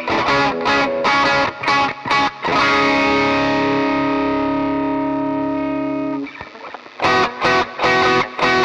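Distorted electric guitar played through the DemonFX Gravity pedal: a stop-start chugging riff, then a chord left ringing for a few seconds that is choked off about six seconds in, and after a short pause the choppy riff starts again.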